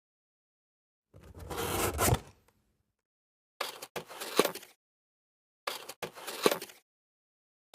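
Scraping and rustling from fragrance packaging being handled and opened, in three separate bursts of about a second each with sharp clicks among them.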